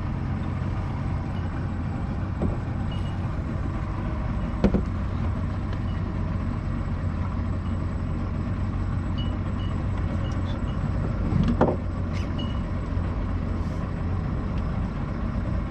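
Fishing boat's engine running steadily with a low hum, with two brief knocks, one about five seconds in and one near twelve seconds.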